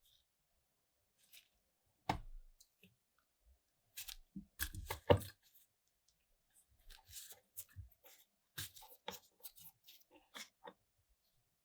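Hand work on an old steel mining lantern during disassembly: a knock about two seconds in, a cluster of heavier clunks with the loudest around five seconds, then scattered light clicks and scrapes of small parts.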